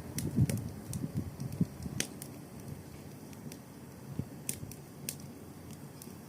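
Wood fire crackling, with scattered sharp pops and a few soft low thumps in the first two seconds.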